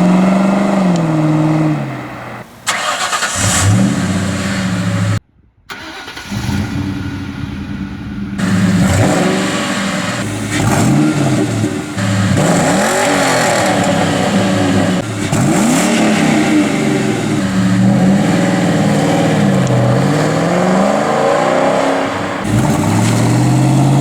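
Ford Mustang 4.6-litre V8 on its stock factory exhaust (H-pipe with catalytic converters), blipped again and again so the pitch rises and falls. There is a brief dead break about five seconds in, and near the end a long rising pull as the car accelerates.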